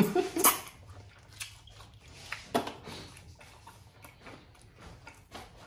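A person biting into and chewing crispy fried chicken close to the microphone: irregular crunches and clicks, with the loudest crunch about half a second in and another a little past two and a half seconds.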